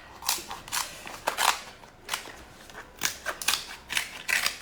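Scissors snipping through king crab shell: an irregular series of crisp cuts and cracks.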